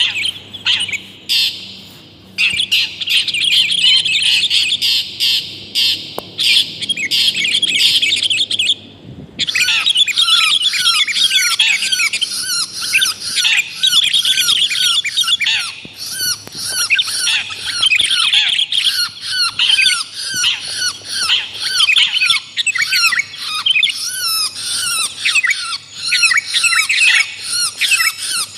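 Bird-lure recording of long-tailed shrike (cendet) and sooty-headed bulbul (kutilang) calls: a dense, fast stream of harsh chattering and squawking notes. About nine seconds in there is a brief break, after which rapid repeated down-slurred notes take over.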